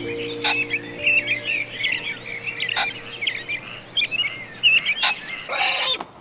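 Many small birds chirping and twittering in quick, overlapping calls, with a short noisy rush near the end.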